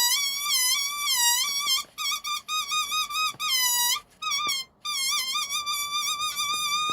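Air being let slowly out of an inflated balloon through its neck, which is stretched tight, giving a high, wavering squeal. About two seconds in, the squeal breaks into a string of short squeaks with brief pauses between them.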